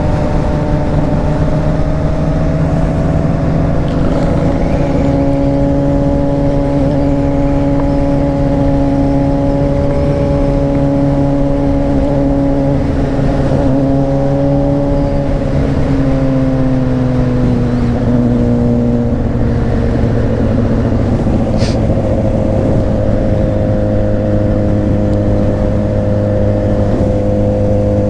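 Honda CBR600RR motorcycle engine running at a steady cruise under a rush of wind. The engine speed eases down a little about two-thirds of the way through.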